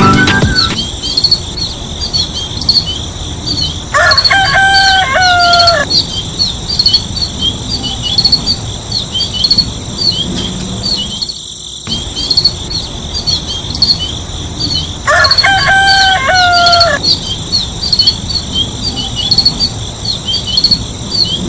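Crickets chirping steadily with small birds tweeting. A rooster crows twice, about four seconds in and again about fifteen seconds in, each crow a long call falling at the end.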